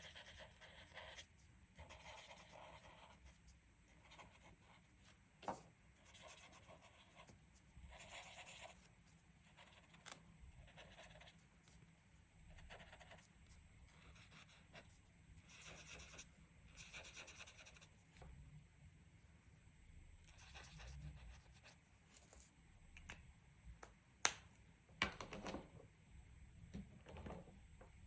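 Faint scratching of a colouring tool on paper, in short back-and-forth strokes with small pauses between them. A few sharp clicks stand out, the loudest about three-quarters of the way through.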